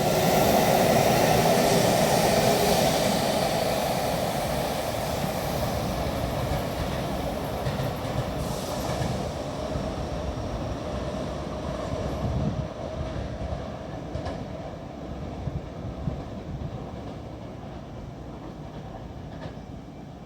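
Electric train running on the line, loud at first and then slowly fading as it moves away.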